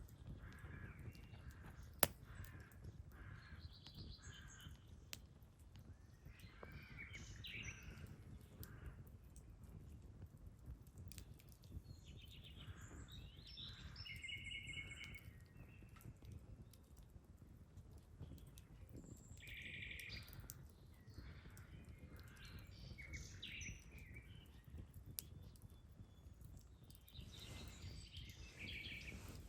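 Birds calling and chirping over a low outdoor background, with an occasional sharp pop of burning wood from a campfire, the loudest about two seconds in.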